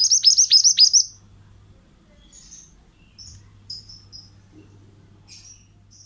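A male mantenan bird singing: a loud, rapid run of about six downslurred whistled notes in the first second, then quieter scattered chirps.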